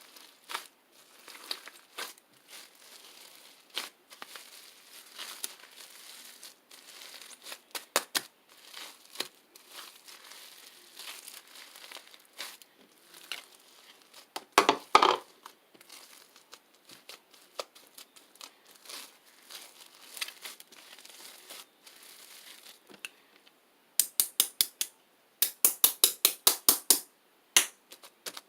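Slime being squeezed and poked by hand: small crackling pops and clicks throughout, a louder squishy burst about halfway through, and a quick run of sharp clicks near the end.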